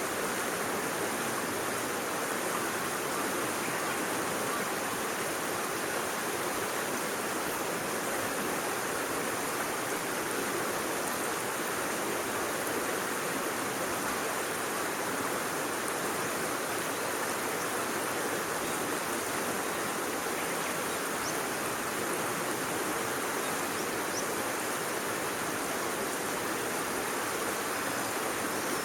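Steady rushing of flowing water, an even hiss with no separate events in it.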